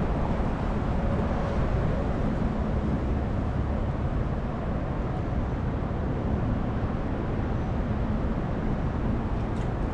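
Wind rumbling and buffeting on the microphone in strong, gusty wind: a steady low noise throughout.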